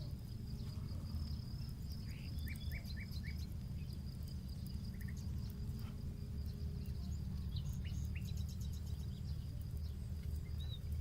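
Nature ambience with a steady high insect drone and short quick series of bird chirps, over a low steady rumble. Faint scattered ticks of a crackling campfire are mixed in.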